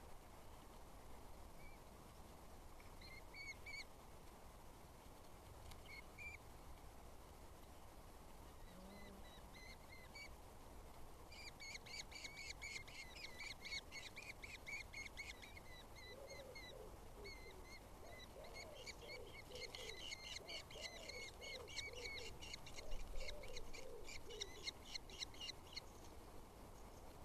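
Eurasian hobby calling faintly in rapid trains of sharp, repeated high notes. The notes are scattered at first, then near-continuous from about eleven seconds in. Lower-pitched calls of another bird join in the second half.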